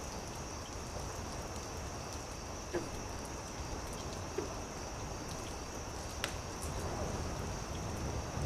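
Night forest ambience: a steady high insect trill over a low even noise, with a few sharp campfire crackles about three, four and a half and six seconds in.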